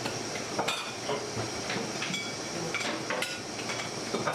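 Irregular light knocks and metallic clinks from hand work on a kumi-ame candy log, some clinks ringing briefly, over a steady background hiss.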